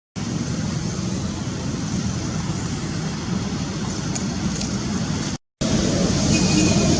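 Steady low rumbling background noise, like distant traffic or wind, broken by a short gap of silence about five and a half seconds in.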